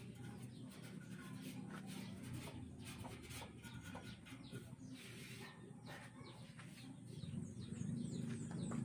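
Faint bird calls over a low steady background, with scattered light taps.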